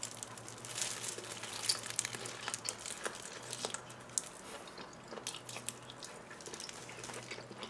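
Mouth sounds of a person biting off and chewing a thick chunk of raw yellowtail: irregular soft wet clicks and smacks, with a couple of sharper clicks.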